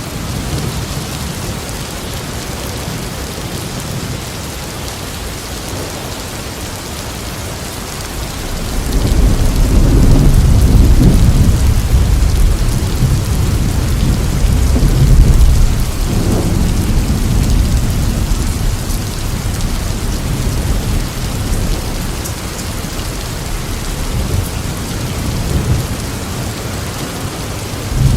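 Steady heavy rain in a thunderstorm, with a long roll of thunder building about eight seconds in and rumbling on in swells for most of the rest.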